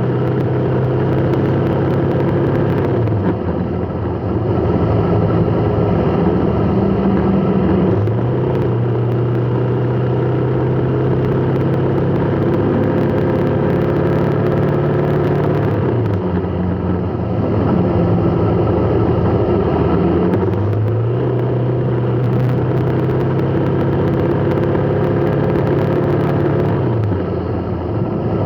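Vehicle engine running steadily, its note dropping away and picking up again every few seconds.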